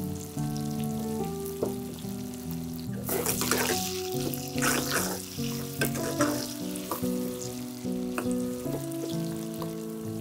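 Curry base frying and sizzling in hot oil in a pot. The sizzle grows loud with stirring from about three to five seconds in, under background music.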